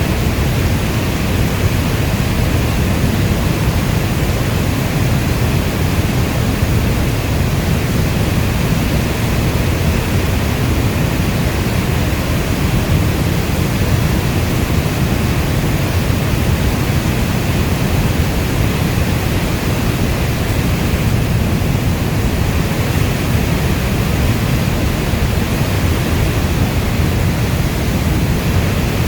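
Steady heavy rainfall as a dense, even noise with a strong low rumble and no separate drops or thunder standing out.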